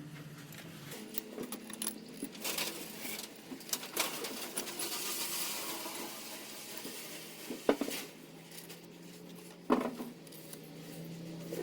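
Light metallic clinks and rattles of metal parts and tools being handled while a 4D56 diesel cylinder head is fitted. Two sharper metal knocks come about two thirds of the way through and again about two seconds later.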